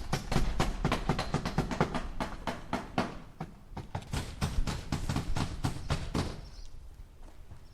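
Hammer driving nails into wood: rapid, sharp blows at several strikes a second that stop about six seconds in. A few faint high chirps follow near the end.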